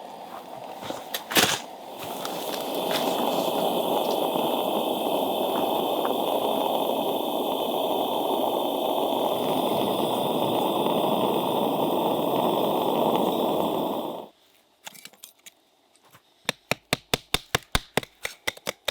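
A steady rushing noise that cuts off suddenly, then, after a short quiet, a run of sharp, evenly spaced clicks at about three to four a second.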